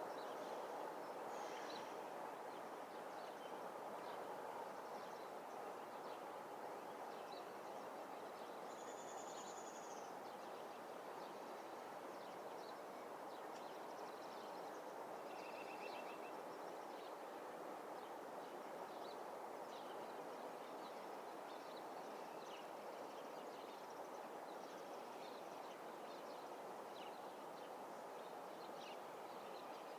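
Faint, steady outdoor background rumble with scattered short bird chirps above it, after a train horn has stopped.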